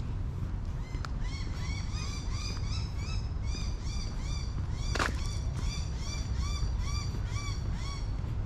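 A bird calling a long, even series of short rise-and-fall notes, about two to three a second, starting about a second in, over a steady low background rumble. One sharp click about halfway through.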